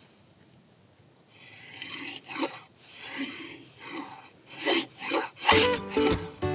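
A run of rhythmic rasping scrapes, one roughly every half second, starting about a second in; acoustic guitar music comes in near the end.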